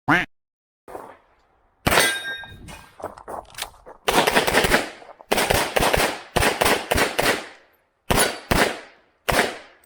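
Pistol fire from an STI 2011 in .40 S&W: rapid shots in quick pairs and dense strings, separated by short pauses.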